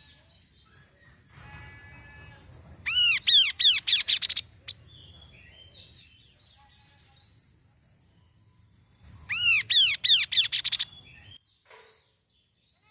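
Kaso-kaso bird singing: two loud bursts of rapid, arching repeated notes, about three seconds in and again near ten seconds, with softer scattered chirps between. A thin steady high whine runs underneath, and the sound cuts off suddenly near the end.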